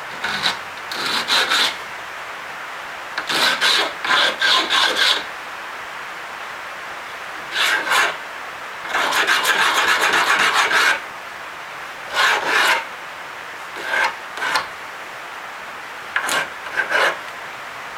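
Coarse sandpaper on a long sanding block rubbed back and forth over a small piece of very dense hardwood, in about seven bursts of quick strokes with short pauses between them.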